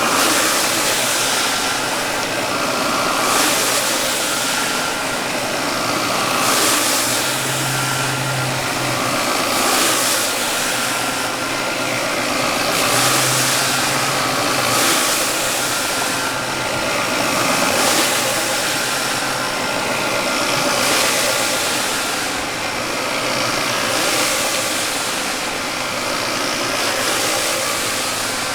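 Rug-cleaning equipment running steadily: a motor hum under a hiss of water spray that swells about every three seconds as a urine-soaked rug is rinsed out.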